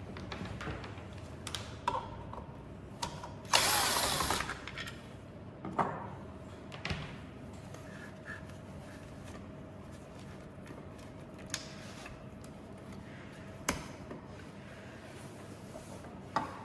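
Clicks, knocks and mechanical clatter of parts and hand tools as the V-belt drive of a Lazaro L-941 belt sander is taken apart, with one louder rasping burst lasting about a second, a few seconds in.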